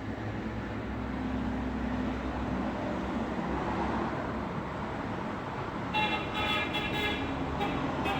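Road traffic noise, with passing vehicles and engines running steadily. Near the end a car horn toots several times in quick succession.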